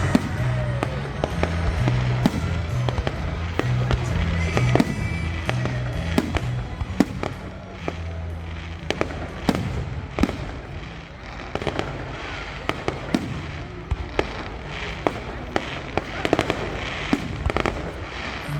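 Fireworks going off, with many sharp bangs and crackles at uneven intervals, over music with a pulsing bass line.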